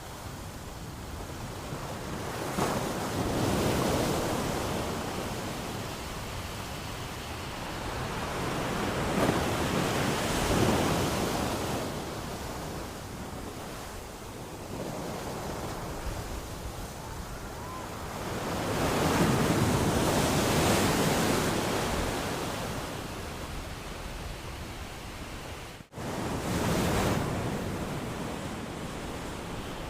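Ocean waves surging and washing onto a beach, swelling and ebbing every several seconds. The sound cuts out for an instant a few seconds before the end, just before the last wave.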